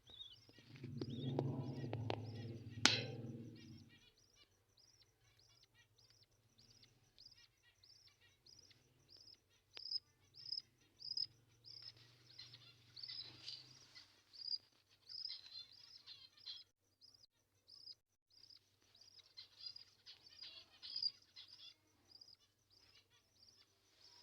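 A baby bird peeping in a steady run of short, high cheeps, about two a second. In the first few seconds there is a low rumble of handling noise with a sharp knock.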